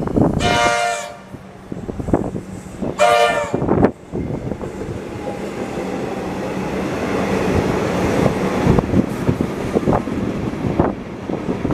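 A train horn sounds two short blasts, then the train runs past with a steady rumble and scattered clicks of wheels over the rail joints.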